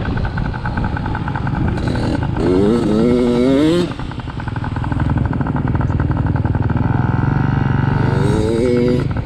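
Dirt bike engine running on a motocross track, rising in pitch as it accelerates hard twice, about three seconds in and again near the end.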